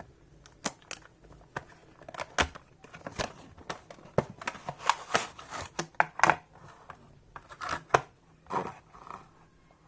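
Small retail box and its packaging being opened and handled by hand: irregular clicks, taps and brief crinkling rustles, spread throughout.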